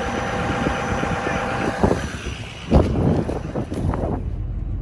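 A 2005 Ford F-250's tuned and deleted 6.0 Powerstroke V8 turbo-diesel idling, running again after a cold no-start from gelled fuel. A steady high whine rides over the engine for about the first two seconds. Then the sound changes, with a few sharp thumps about three and four seconds in.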